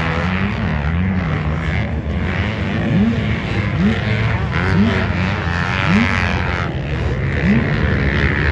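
Several motocross race engines running together, one revving up in short rising bursts about once a second.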